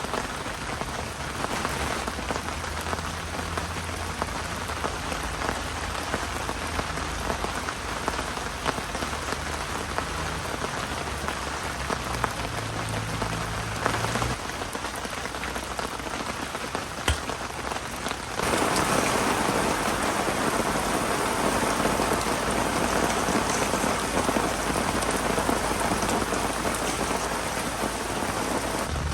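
Heavy typhoon rain falling steadily, with scattered sharp drop impacts. About two-thirds of the way through it abruptly gets louder.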